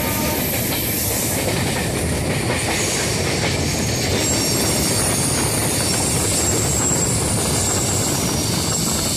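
Passenger train running at speed, heard from an open coach doorway: a steady rumble and clatter of wheels on the track. A faint high-pitched squeal from the wheels on the curve comes in about four seconds in.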